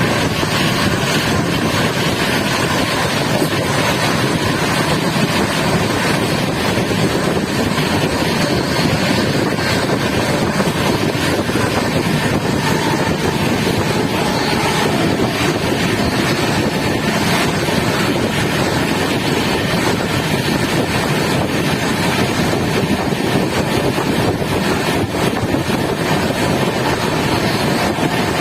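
Steady, unbroken roar of the Sealdah Rajdhani Express train running at speed, holding at one level throughout.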